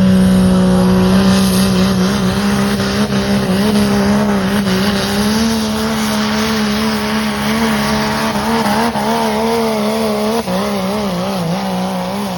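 Pickup truck's swapped-in 6.7 engine held at high, steady revs while pulling the sled down the track. Its pitch wobbles up and down through the second half.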